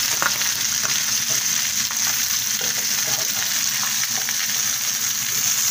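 Beef steaks and sliced onions sizzling steadily in hot oil in a frying pan as the onions start to brown, with a few faint clicks of a fork moving them.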